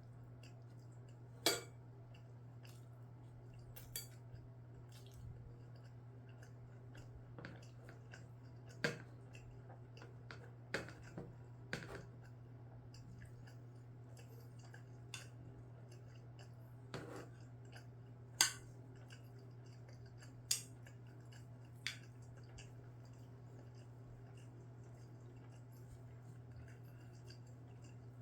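Spoon and chopsticks clicking and scraping against bowls and dishes in scattered, irregular knocks while eating rice and scrambled eggs, over a steady low hum.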